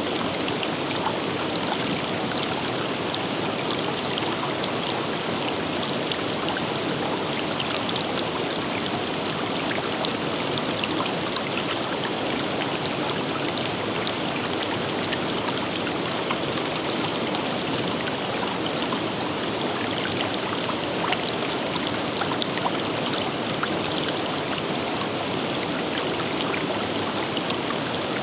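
River water flowing steadily over rocks, an even rushing with small splashes and droplets ticking through it.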